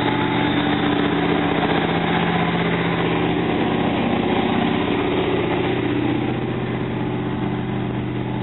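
Oldsmobile 350 (5.7 L) V8 running steadily during the break-in of a new Comp Cams XE268 camshaft.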